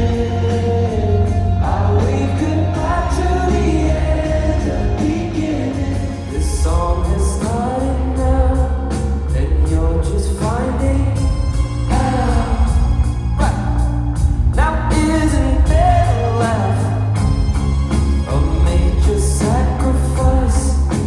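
Pop-rock band music with a sung vocal line over a steady bass and drum beat.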